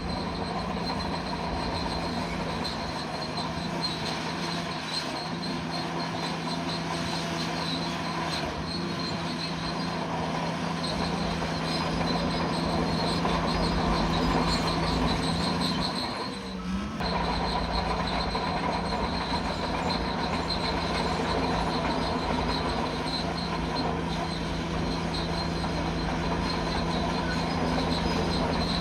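Bulldozer working: a steady diesel engine hum with the squeal and clatter of its steel tracks, dropping briefly about sixteen seconds in before carrying on.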